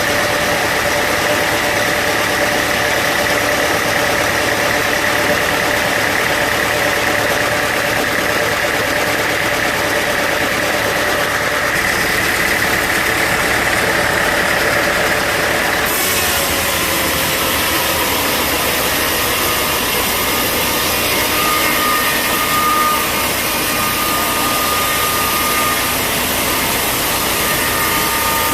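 Bandsaw sawmill running steadily with a whine, cutting through a log. About halfway through the sound turns abruptly hissier and a new, higher whine takes over.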